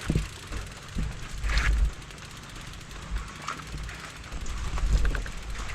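Bicycle freewheel ticking and frame rattling, scattered clicks over the ride, with bursts of wind rumble on the microphone.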